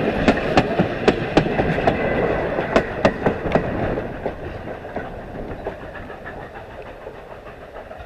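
Passenger coach wheels rolling over rail joints: a rumble with sharp clickety-clack clicks, frequent in the first half, then fewer and quieter as the overall sound fades in the second half.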